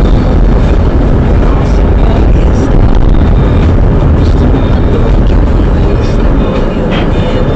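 Loud, steady road and engine noise of a moving car, picked up by a dash camera.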